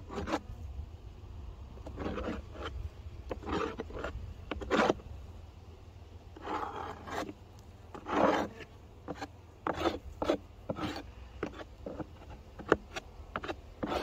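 Irregular scraping and rubbing strokes, about a dozen, each under a second long, the loudest about five and eight seconds in, over a steady low rumble.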